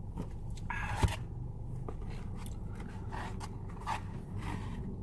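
Rustling and scraping of takeout food packaging being handled, with a sharp knock about a second in.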